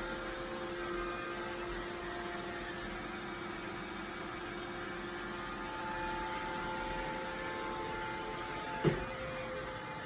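Robot vacuum running: a steady whir with a few faint steady tones. One sharp knock near the end.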